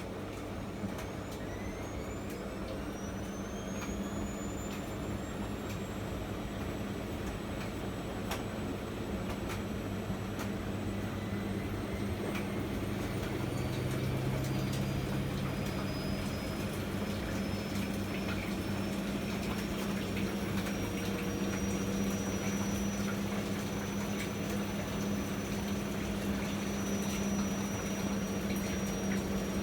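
Miele MedicWash W2585 washing machine running through its rinse cycle, with water sounds over a steady hum. A faint high whine rises slowly in pitch.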